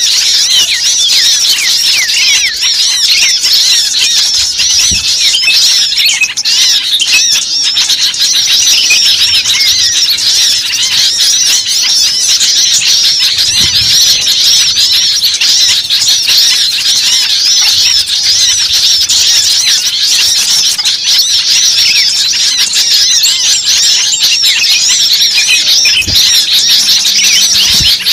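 A dense, unbroken chorus of many small birds chattering and squeaking at once, rapid high-pitched chirps overlapping with no pause: a noisy bird-catcher's lure call (suara pikat) for drawing small birds in.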